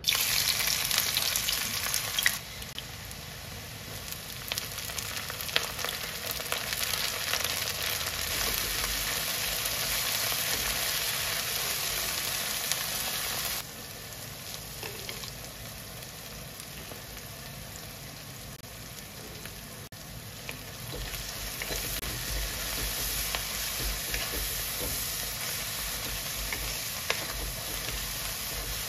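Sliced onion and chopped chives sizzling in hot oil in a kadai. The sizzle is loudest in the first couple of seconds after they hit the oil. It then settles into steady frying while being stirred with a wooden spatula, with scattered scrapes and taps against the pan, drops abruptly about halfway through, and builds again near the end.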